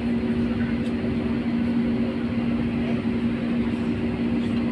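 Airliner cabin noise while taxiing: the jet engines at low taxi power and the cabin air system make a steady drone with a constant low hum.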